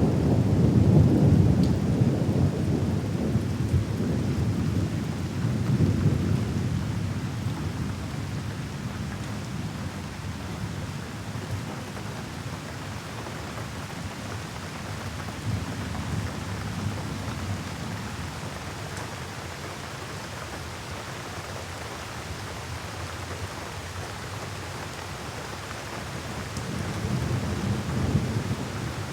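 Steady rain with rolling thunder. The thunder rumbles loudest at the start, fades away over several seconds, and swells again near the end, while the rain keeps up an even hiss.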